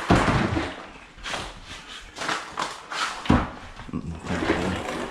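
Ice being dumped into a Yeti cooler, the cubes rattling and clattering. There is a loud rush at the start and another a little past three seconds.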